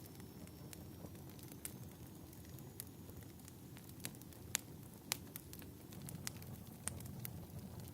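Wood fire crackling: a low, steady rustle of flames with irregular sharp pops, a couple of louder pops about halfway through.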